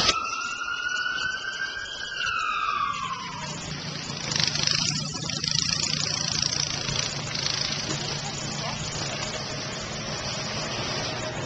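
An emergency vehicle siren wailing: one slow rise in pitch that turns and falls away, fading out about three seconds in. After it, a steady low engine hum under a noisy rush.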